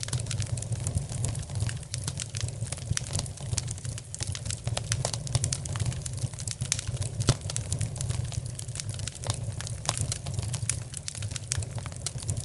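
Wood fire crackling in a fireplace: a dense, irregular stream of sharp snaps and pops over a steady low rumble.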